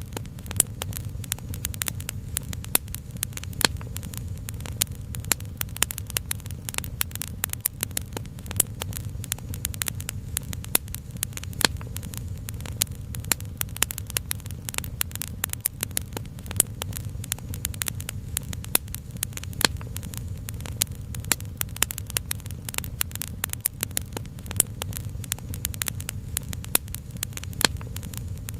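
Wood fire crackling steadily, with many small irregular pops every second over a low, even rumble.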